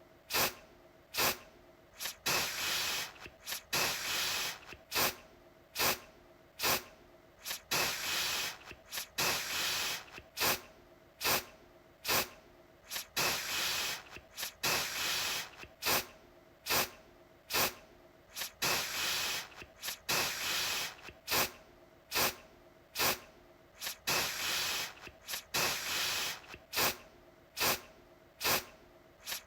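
Aerosol deodorant can sprayed in repeated short bursts, each a hiss of about half a second to a second, with sharp clicks between them, repeating roughly every two seconds.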